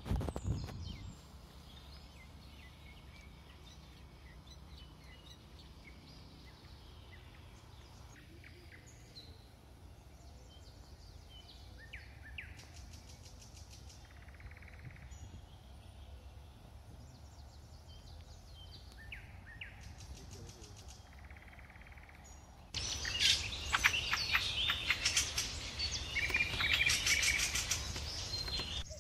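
Birds chirping and calling over a steady low outdoor background noise. From about 23 seconds in, the chirping turns much louder and busier. A brief knock comes right at the start.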